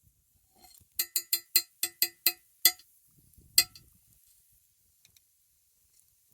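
A utensil striking a ringing dish: about eight quick, even clinks, roughly four a second, each with the same ringing pitch, then one more clink about a second later.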